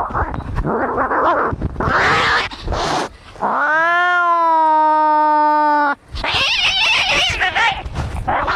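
Cats fighting: harsh hissing and screeching cries, then one long yowl that rises and then holds steady for about two and a half seconds, cut off sharply, followed by more hissing and screeching.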